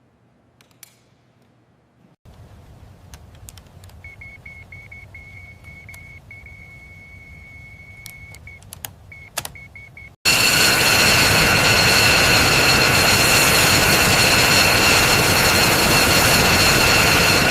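Jet engine running loud, a steady rush with a high whine on top, cut in suddenly about ten seconds in. Before it come a faint steady whistle and scattered clicks.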